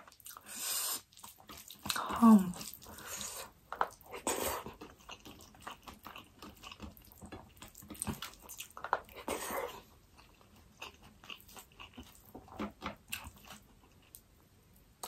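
Close-miked mukbang eating sounds: wet chewing and lip smacks as rice and curry are eaten by hand, with a brief hummed vocal sound about two seconds in.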